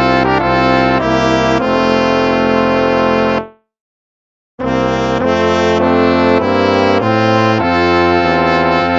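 Instrumental hymn music in brass-like tones, played as held chords that change every half second or so. About three and a half seconds in it fades out into a second of silence, then the chords start again.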